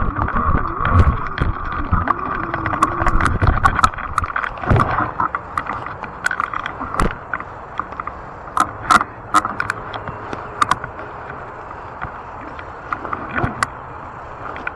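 Fat-tire electric bike being ridden: a rumble of tyres and wind, with many sharp clicks and rattles from the bike, thickest in the middle. A steady hum heard at first fades away after a few seconds.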